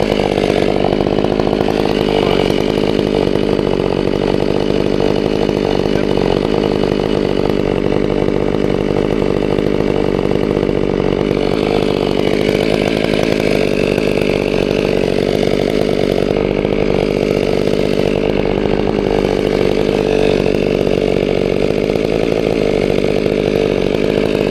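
Chainsaw running at a steady, unchanging pitch.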